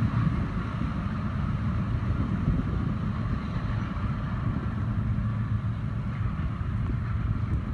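Train's diesel locomotive engine running steadily with a low, even hum.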